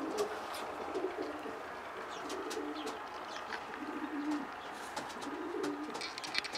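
Racing pigeons cooing: short, low, repeated coos, with scattered light clicks.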